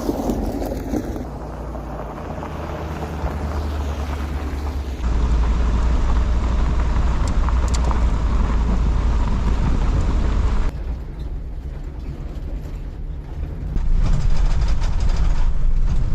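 Converted shuttle bus driving slowly over a rough dirt road: a steady low rumble of engine and road noise. It jumps abruptly in level about five seconds in, drops near eleven seconds, and rises again near fourteen.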